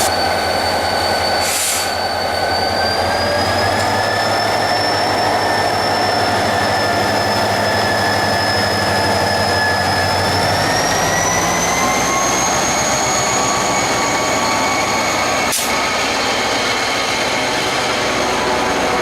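Train moving through the station with steady high-pitched squealing tones over a low rumble; the squeal rises in pitch about ten seconds in. A single sharp click comes near the end.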